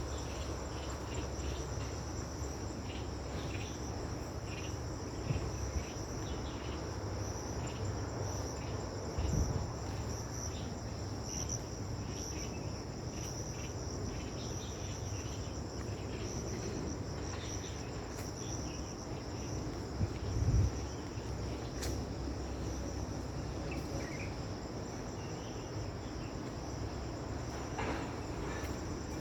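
Insects chirring in a steady, finely pulsing high drone, over a low rumble with a few soft thumps.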